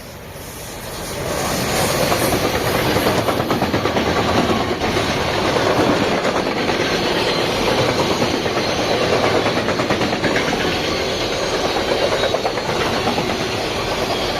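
A train passing on the line: its rushing noise swells in over about the first two seconds, then stays loud and steady with a fast fluttering rattle.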